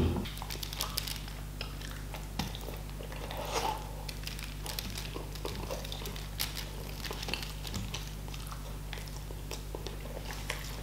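Close-miked chewing of a mouthful of rice and braised pork: soft wet smacks and small mouth clicks, scattered and irregular, over a low steady hum. A brief louder mouth sound comes right at the start.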